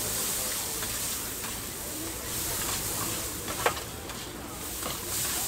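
Fried noodles sizzling on a flat steel griddle as they are tossed with two metal spatulas, with scattered scrapes and clicks of the spatulas on the steel; one sharper clack about two-thirds of the way through.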